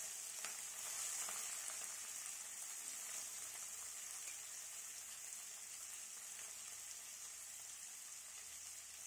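Small salt- and turmeric-coated prawns, just dropped into very hot mustard oil, sizzling in the wok with a steady hiss that slowly fades.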